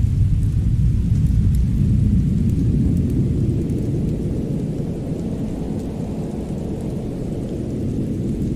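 Winter fireplace ambience: a steady deep rumble that swells and eases slowly, with faint scattered crackles of a wood fire.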